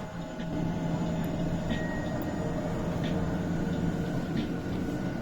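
Maglev train under way, heard from inside the cabin: a steady electric hum with a low drone and a few held tones, growing a little louder about half a second in.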